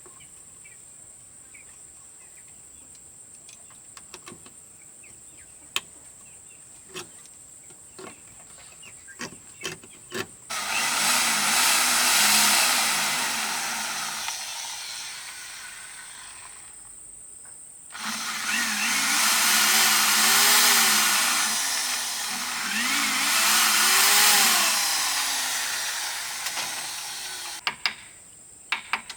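A small motor-driven machine runs in two long stretches, its pitch sagging and rising again as it takes load. A few sharp knocks come before it, and a steady insect trill is heard at the start and end.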